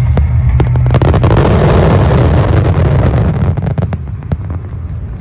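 Large aerial fireworks in a finale barrage: rapid bursts and booms over a deep rumble, with a dense crackle from about one to three and a half seconds, then fading toward the end.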